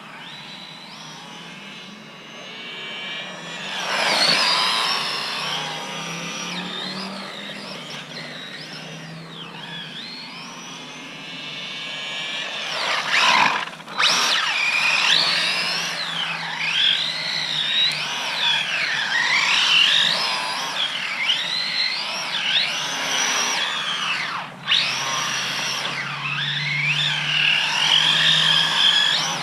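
Small electric motor and drivetrain of a mini RC truck whining, the pitch rising and falling over and over with the throttle as it drifts, with a loud surge about four seconds in and again near the middle.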